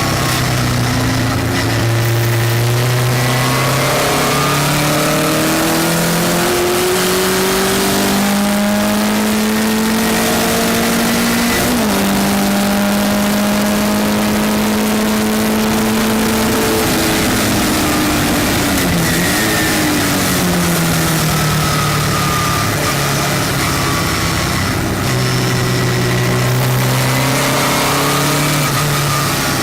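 Westfield sports-racing car's engine at race speed, heard on board: the revs climb steadily for about twelve seconds, hold level for a few seconds, drop away as the car slows, then build again near the end.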